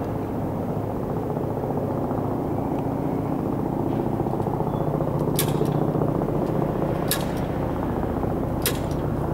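Helicopter running close by: a steady drone of turbine and rotor. Three short sharp clicks sound about a second and a half apart in the second half.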